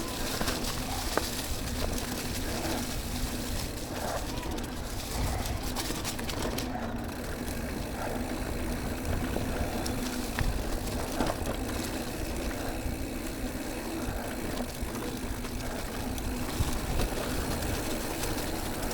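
Mountain e-bike ridden along a dirt trail: tyres rolling over the ground, the bike rattling with scattered clicks over bumps, and a low rumble of wind on the microphone.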